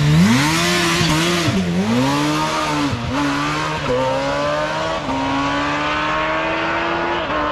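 Drag-racing motorcycle engine revving up and down, then pulling hard with its pitch climbing steadily, broken by short dips at each upshift about three, four, five and seven seconds in.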